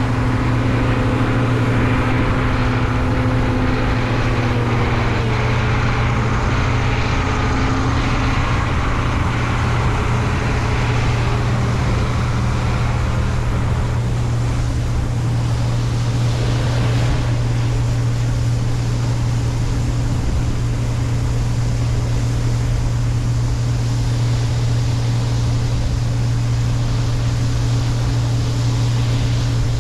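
Heavy farm diesel engine running steadily under load, with a deep steady hum; a higher whining tone over it drops in pitch about five seconds in.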